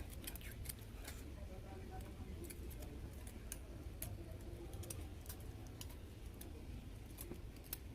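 Scattered light clicks and ticks, irregularly spaced, over a steady low hum.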